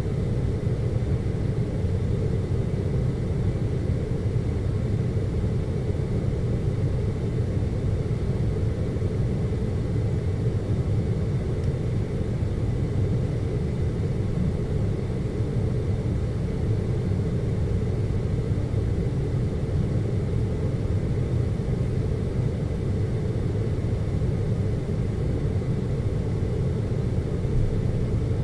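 Air conditioner running with a steady low hum and rumble, with a faint high whine above it.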